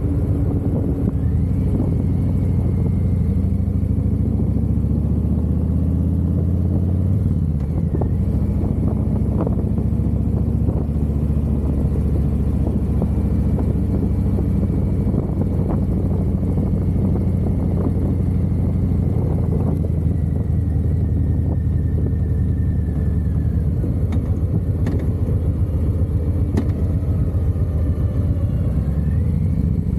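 Harley-Davidson motorcycle's V-twin engine running steadily while riding, a deep, even engine note with no pauses.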